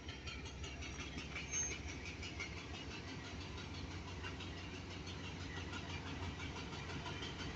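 Sri Lanka Railways M8A diesel locomotive's engine running steadily at idle, a faint low rumble, with a short high chirp about one and a half seconds in.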